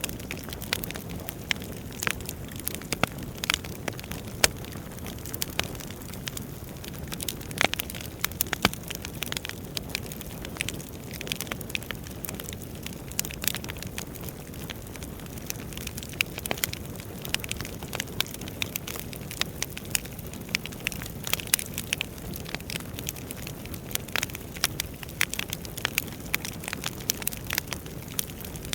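Wood fire burning in a fireplace: a steady low rush of flames with many sharp crackles and pops of burning logs at irregular intervals.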